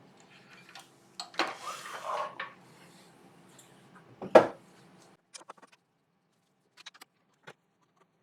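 Clinks and knocks of a wooden bowl being turned around and mounted in a metal lathe chuck, with one sharp knock about four seconds in. A faint low hum stops about a second later, and scattered light clicks follow.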